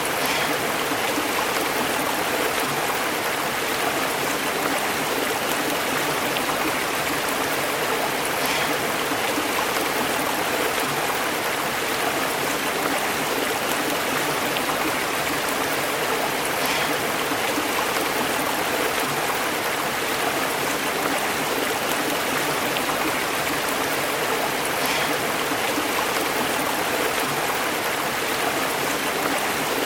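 A stream babbling and bubbling as it flows over rocks and branches in its bed, a steady, unbroken rush of water.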